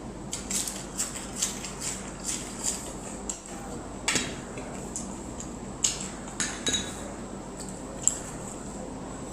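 Tableware clinking and tapping during a meal: a dozen or so short, irregular clicks and knocks, one slightly longer scrape about four seconds in.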